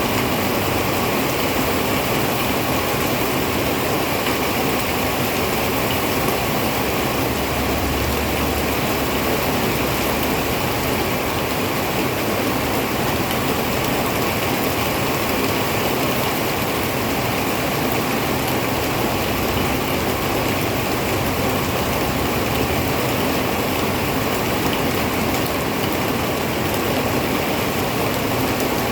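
Heavy rain falling steadily, a dense, unbroken hiss, with a brief low rumble about eight seconds in.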